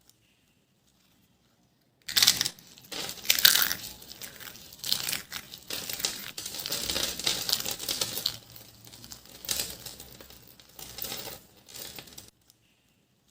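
Dry soap curls being crushed: crisp crackling and crunching in uneven bursts, starting about two seconds in and cutting off about a second before the end.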